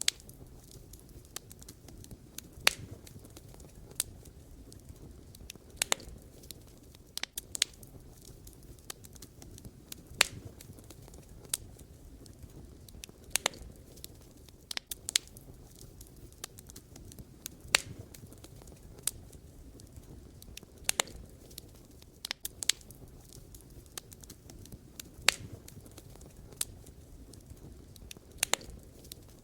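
Wood fire burning with a low steady rush of flame, broken by irregular sharp crackles and pops of burning logs, a loud snap every second or two among many smaller ticks.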